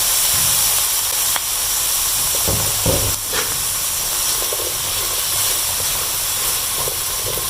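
Chicken breast and pea eggplant sizzling with a steady hiss in a hot frying pan just after soy sauce has gone in. A couple of low knocks come about two and a half to three seconds in.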